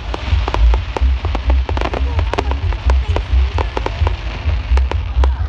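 Fireworks going off in a rapid, irregular string of cracks and pops, over a pulsing low rumble.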